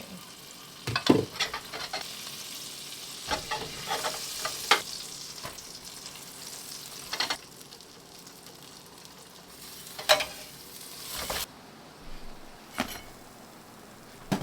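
Peanut butter and jelly sandwich sizzling as it grills in a frying pan, with several sharp taps and scrapes of a utensil against the pan. The sizzle cuts off suddenly near the end.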